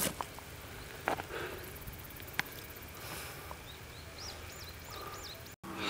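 Quiet outdoor background with a few sharp clicks. About four seconds in, a bird calls with a quick run of high, arching chirps.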